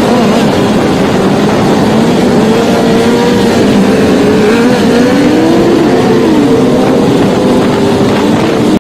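Motorcycle engines running and revving, their pitch wavering up and down, with a steady noise of wind and traffic underneath.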